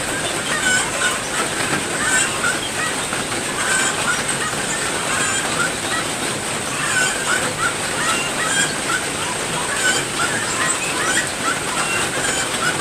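Steady rain falling, with birds in an aviary chirping in short repeated calls all through it, over a steady high-pitched tone.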